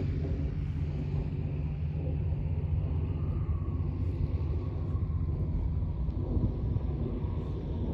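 Light propeller aircraft's piston engine running steadily, a deep rumble with a faint higher whine that comes in about three seconds in.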